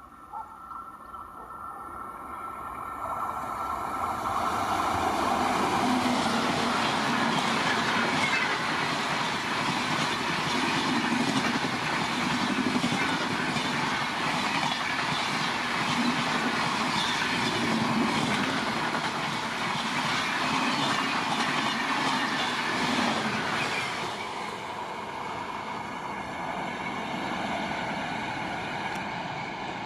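An electric-hauled Indian Railways express train passing at high speed. It builds as it approaches, then the coaches go by loudly for about twenty seconds with a regular rhythmic pulsing of the wheels, before the sound falls away near the end as the train recedes.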